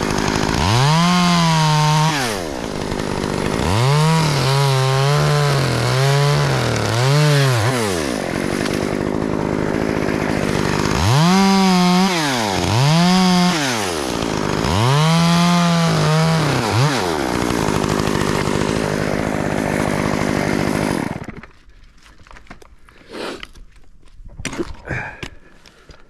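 Gas chainsaw being revved up and let back to idle again and again while cutting, its pitch rising, holding high and falling each time. It stops about 21 seconds in, followed by a few faint knocks.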